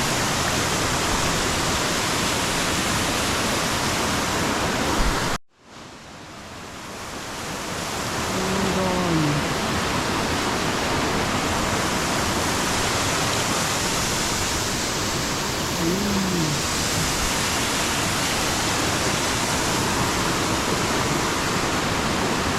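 Steady rush of flowing water, like a stream or small waterfall. About five seconds in it cuts out abruptly and then fades back up over the next few seconds.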